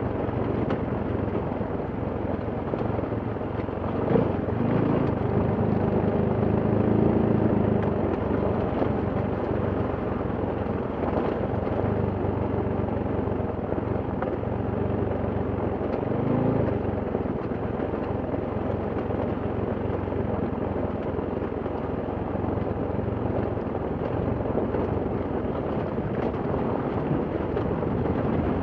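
Enduro motorcycle engine running at low revs down a steep downhill, with a brief rise in revs about four seconds in and another about sixteen seconds in.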